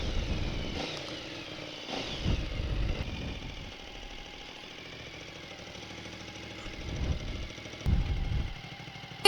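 Motorcycle engine running on the move, its pitch rising and falling a few times with the throttle, with low rumbling swells.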